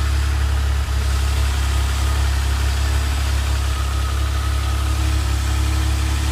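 DeLorean DMC-12's PRV V6 engine idling steadily, running well but ticking over fast at about 1300 rpm, a fast idle that still needs adjusting down.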